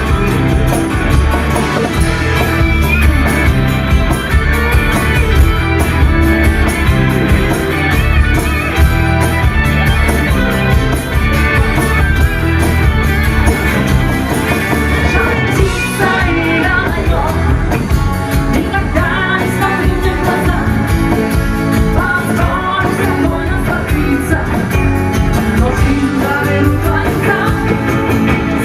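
A rock band playing live: electric guitars, bass and drums, with a singer's voice.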